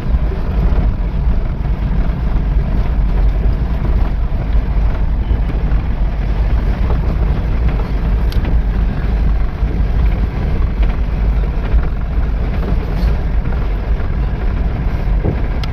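A truck running on the road, a steady rumble of engine and road noise.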